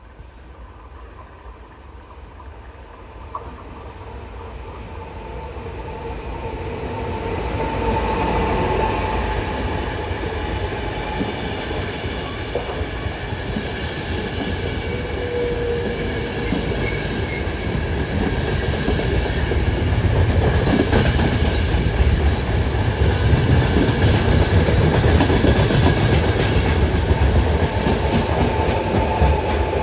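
A train approaching and passing through a station, growing louder over the first eight seconds, then running loud and steady with a whine of several steady tones.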